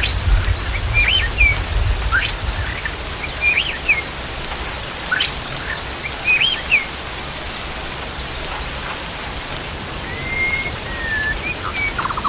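Wild bird song over a steady hiss of background noise: a short whistled phrase repeats three times, about every two and a half seconds, with quick rising notes between the phrases, then a longer level whistle near the end.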